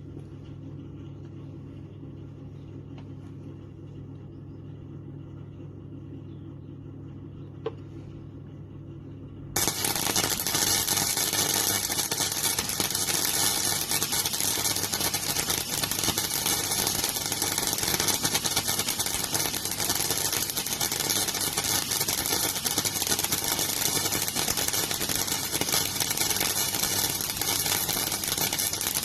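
Steady low hum, with one click about eight seconds in. Then, about ten seconds in, a MIG welder's arc strikes, and a continuous crackling weld runs on, laying a long pull bead to join a patch into thin car-body sheet steel.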